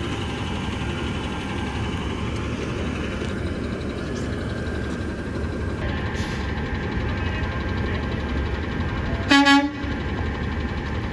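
Garbage truck diesel engines running steadily, with one short horn toot about nine seconds in.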